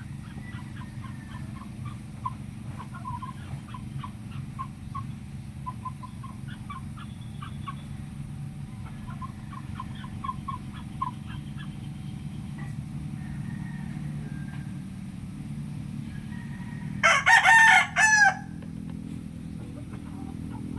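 A rooster crows once, loudly, near the end. Before it come short scattered clucking notes, over a steady low hum.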